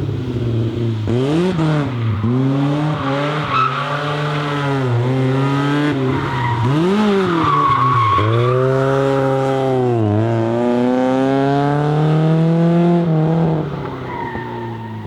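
BMW M3 E30's S14 four-cylinder engine driven hard, its revs climbing and falling again and again as it accelerates, shifts and brakes. Tyres squeal briefly around the middle.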